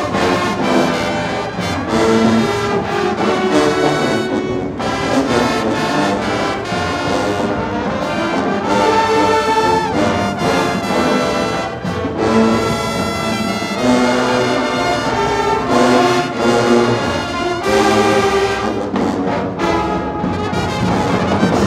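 High school marching band playing a dance tune: trombones and trumpets in short punchy phrases over drums.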